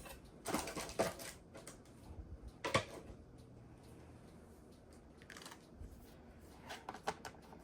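Scattered clicks and rustles of cardstock and plastic die-cutting plates and a metal die being handled and taken apart, with a sharp click a little under 3 s in.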